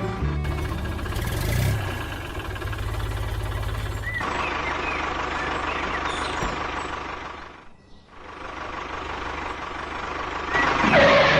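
An engine running with a low, rapid pulsing rumble for about four seconds, then a steadier, noisier hiss.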